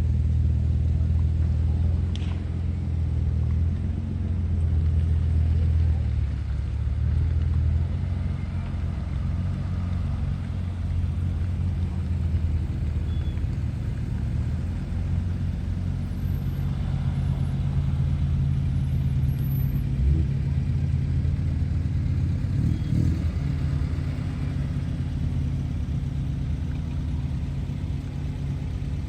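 Car engine running at a steady low drone.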